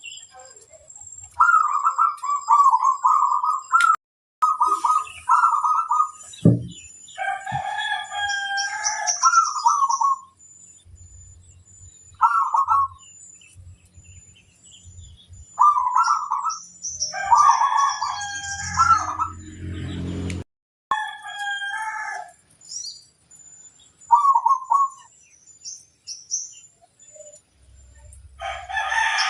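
Zebra dove (perkutut) cooing in short repeated phrases, answered several times by roosters crowing, with small birds chirping faintly in the background. There is a single low thump about six and a half seconds in.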